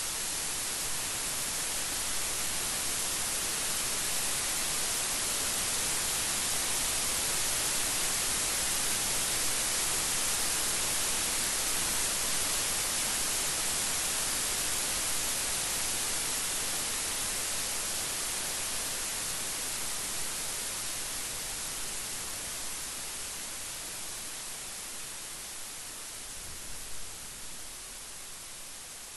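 Steady rain falling, a dense even hiss, easing off gradually over the last ten seconds; no thunder in it.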